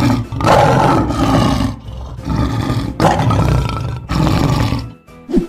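A lion roaring loudly several times in a row, each rough roar lasting about a second, stopping about five seconds in; a cartoon sound effect.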